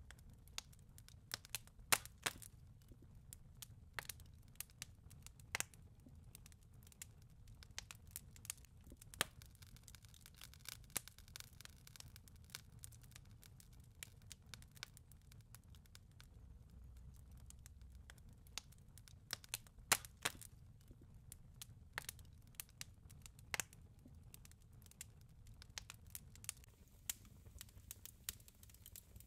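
Fireplace wood fire crackling: irregular sharp pops and snaps over a faint low rumble.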